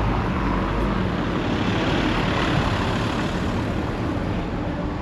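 Steady low hum of a motor vehicle's engine running, under a continuous wash of street traffic noise.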